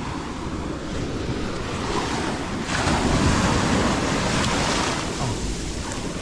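Sea waves washing up the beach, one wave surging in about three seconds in and subsiding about two seconds later, with wind rumbling on the microphone.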